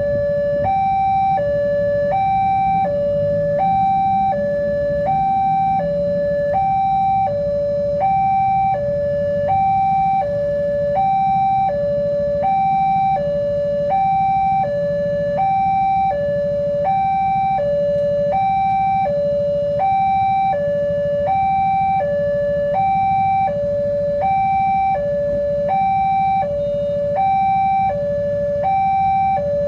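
Electronic railway level-crossing warning alarm sounding: a higher and a lower tone alternate evenly, each held for about two-thirds of a second, in a steady two-tone "ding-dong" that signals a train approaching and the barriers down.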